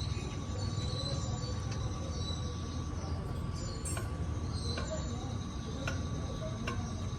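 Steady mechanical hum with high-pitched squeals and a few sharp clicks.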